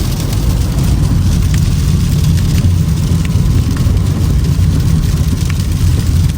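Toyota Camry driving on a snow-covered road: a steady low rumble of tyre and road noise with a hiss above it and a few faint ticks.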